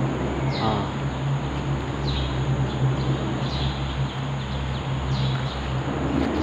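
A bird calling repeatedly, a short high falling note about every second and a half, four times, over a steady low rumble.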